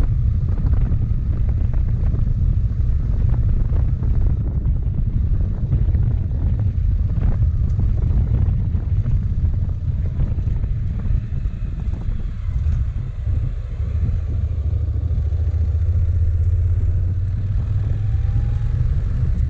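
Motorcycle engine running at speed with wind rushing over the microphone; the engine note settles steadier in the last few seconds.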